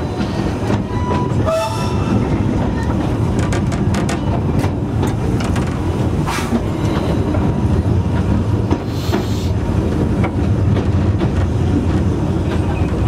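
Narrow-gauge railway coach running along the track: a steady rumble with repeated clicks and knocks of the wheels over the rail joints. A short tone sounds about a second and a half in.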